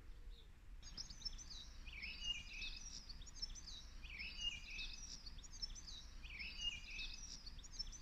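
A songbird singing: quick chirping, warbling phrases repeated every couple of seconds, over a faint low rumble.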